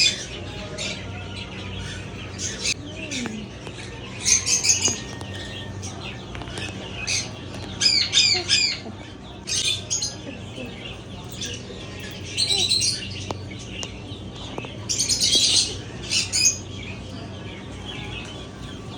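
Caged parrots squawking in sharp, high, harsh calls every second or two, some broken into quick rattling runs of notes.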